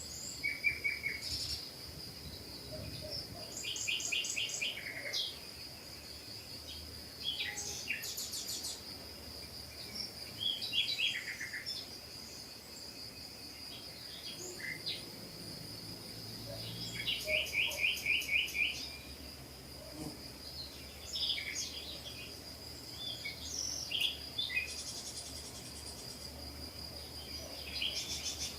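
Several small birds calling and singing in short chirps and quick trills of repeated notes, over a steady high-pitched tone.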